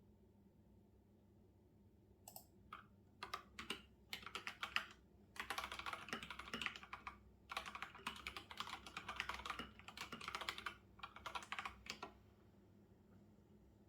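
Typing on a computer keyboard: a few scattered keystrokes start about two seconds in, then quick runs of typing with short pauses, stopping about two seconds before the end.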